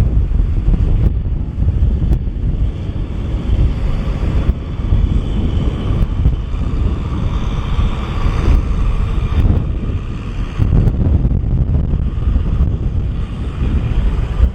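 Kubota M6040SU tractor's four-cylinder diesel engine running steadily under load as it pulls a plough through wet paddy mud, with wind buffeting the microphone.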